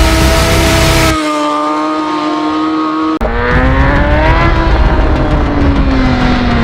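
Motorcycle engine revving hard and held at high revs, with sudden breaks about a second in and about three seconds in; after the second break the revs climb briefly, then fall away steadily near the end.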